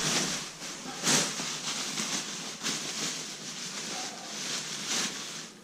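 Rustling and swishing of clothes and bags being handled and sorted, in a run of irregular swishes with a sharper one about a second in.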